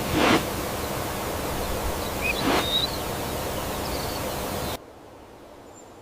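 Steady rushing outdoor ambience hiss with two brief whooshes and a couple of faint, short bird chirps. It cuts off abruptly about five seconds in, leaving a much quieter background.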